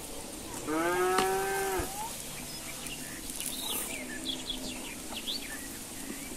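A cow moos once, a single call of about a second that drops in pitch at the end, followed by a few short bird chirps.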